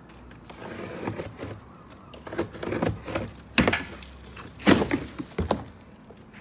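Cardboard packaging being torn and pulled apart, a scraping rustle followed by three sharp cracks and knocks in the last three seconds.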